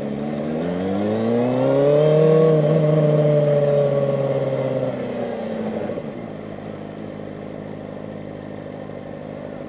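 Kawasaki ZX-4RR's 399 cc inline-four revving up under acceleration and holding high revs for a few seconds. About five to six seconds in the revs drop quickly, and the engine settles to a lower steady note.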